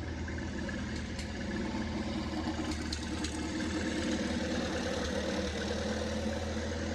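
Antique tractor engine running steadily at a low idle.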